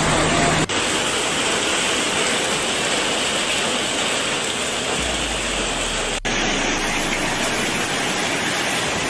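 Loud, steady rush of water, with two abrupt cuts where the sound breaks off and resumes, about two-thirds of a second in and about six seconds in.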